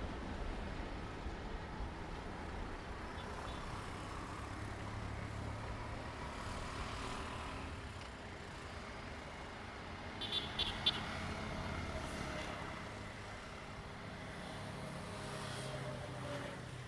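A vehicle running past, its tone falling slowly in the second half, with a short cluster of clicks about ten seconds in.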